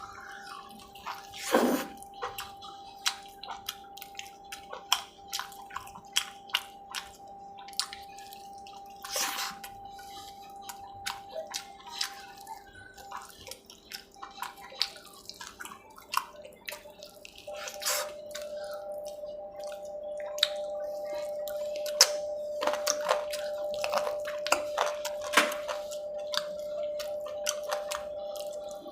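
Close-miked wet eating sounds: irregular chewing, lip smacks and sticky clicks of a mouthful of food, a few every second.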